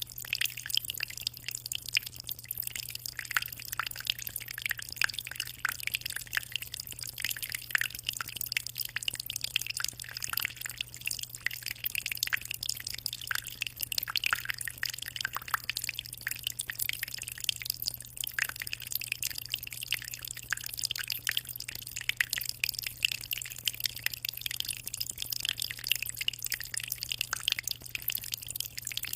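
Aquarium water splashing and trickling: a dense, irregular patter of small drips and plinks over a steady hiss. A faint steady low hum runs underneath.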